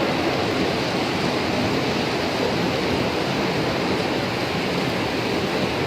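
Heavy downpour: a steady, even rush of rain and water noise with no breaks.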